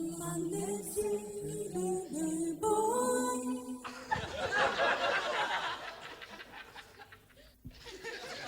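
Unaccompanied voices singing a few long held notes that step up and down in pitch, for about four seconds, then an audience laughing and chattering.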